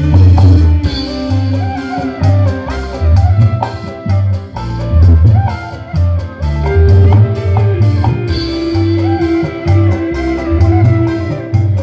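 Loud music played through a large PA sound system under test, with a heavy pulsing bass beat, drums and plucked-string melody.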